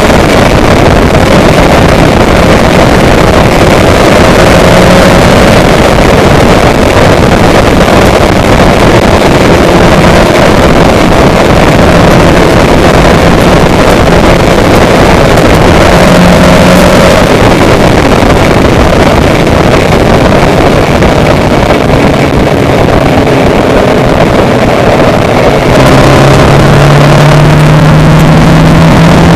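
Loud, steady wind noise on the microphone over a droning vehicle engine, whose pitch rises near the end as it speeds up.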